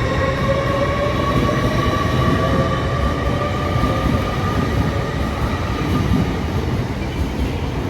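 A train moving along the platform: a heavy rumble from the wheels on the rails, with a high whine that slowly falls in pitch. It eases slightly near the end.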